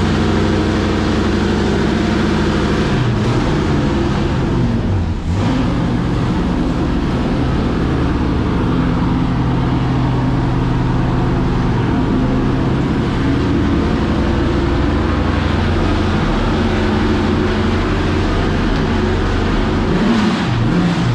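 Historic race car engines running loud, their pitch rising and falling as they are revved.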